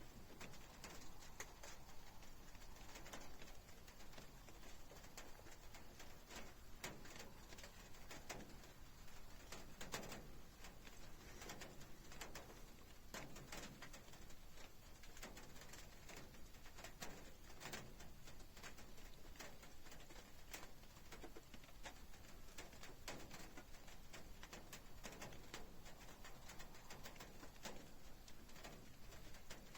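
Faint rain, with scattered drops ticking sharply throughout and a few soft, low swells every several seconds.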